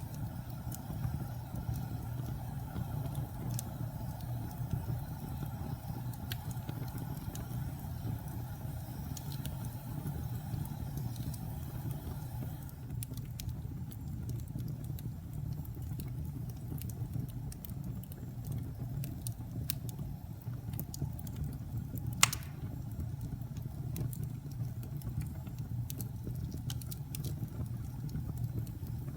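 Wood fire burning in a fireplace: a steady low rumble with scattered crackles and one louder pop about two-thirds of the way through.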